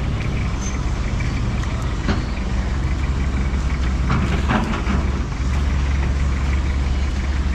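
Motor engine running with a steady low rumble, with traffic or machinery noise around it.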